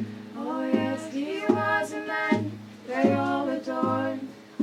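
Wordless singing over a steady low thumping beat, about one beat every three-quarters of a second.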